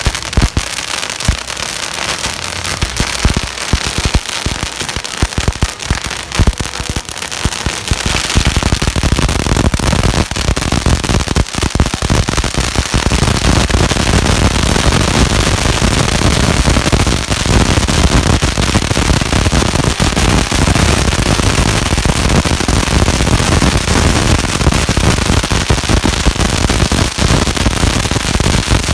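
Strings of firecrackers going off in rapid cracks, which thicken about eight seconds in into a loud, unbroken barrage of bangs.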